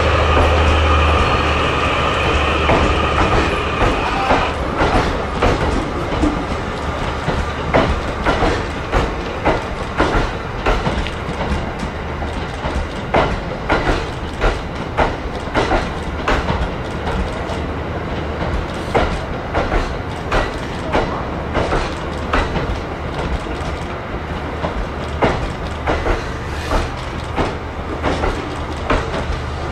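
Train Suite Shiki-shima (E001 series) sleeper train rolling slowly past, its wheels clicking over rail joints and points in an uneven clickety-clack. Over the first four seconds a steady whine and a low hum sound, then die away.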